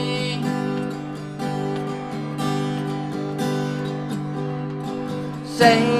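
Acoustic guitar strumming chords steadily between sung lines of a soft rock ballad.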